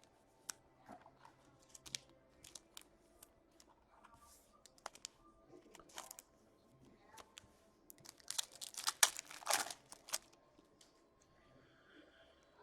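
Hockey trading cards being handled on a table, with scattered light clicks and snaps, then a card pack's wrapper crinkling and tearing for about two seconds a little past the middle.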